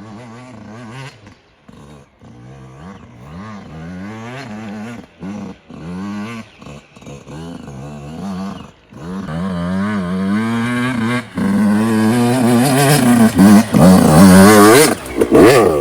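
Yamaha YZ85 dirt bike's two-stroke single-cylinder engine revving up and down as it is ridden, much louder in the second half.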